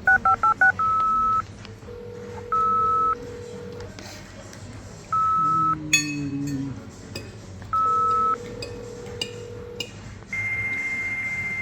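Electronic telephone-style tones: a quick run of short keypad dialing beeps, then several separate long beeps of one pitch about two to three seconds apart, with a lower steady tone under some of them. About ten seconds in, a steady higher tone begins.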